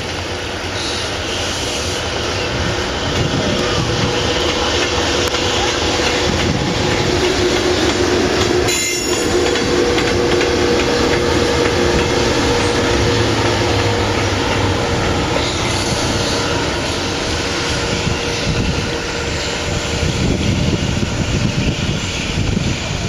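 Freight train running past on the rails: a loud, continuous rumble of wheels on track with a steady whining tone through the middle, and wheels clattering over rail joints near the end.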